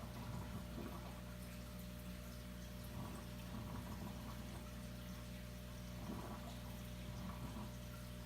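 Aquarium filtration running: water trickling and splashing into the tank over a steady low pump hum.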